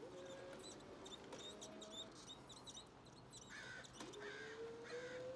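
Birds chirping repeatedly in the background, faint and steady. From about four seconds in, a faint thin whine creeps slowly upward in pitch.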